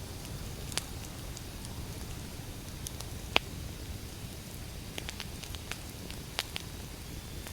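Wood fire burning: a steady low rumble of flames with scattered sharp crackles and pops from the burning logs, the loudest pop a little over three seconds in.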